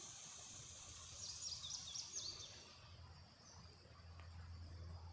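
Faint outdoor ambience: a small bird chirps quickly several times between about one and two and a half seconds in, over a steady high insect buzz that fades about three seconds in and a low steady rumble.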